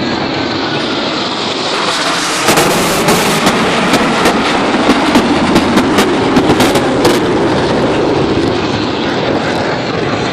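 F/A-18 Hornet jet noise as the aircraft pass. The engine noise swells about two seconds in, crackles harshly for several seconds, then eases toward the end.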